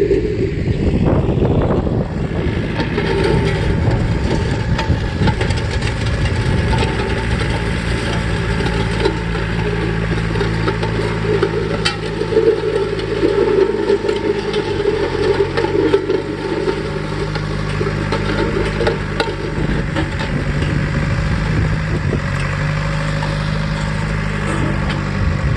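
John Deere 1070 compact tractor's diesel engine running steadily while pulling a disk harrow through hard, dry soil, with faint scattered clicks. The engine note drops a little about halfway through.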